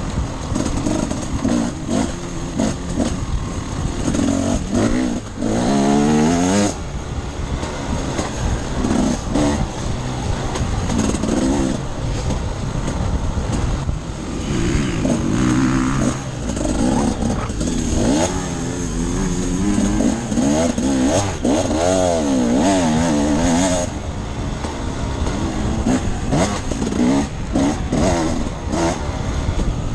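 Off-road enduro motorcycle engine revving up and down over and over as the bike is ridden, the pitch climbing and dropping with each twist of the throttle.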